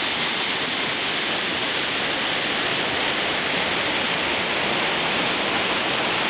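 Steady rush of a rainforest waterfall, an even unbroken roar of falling water.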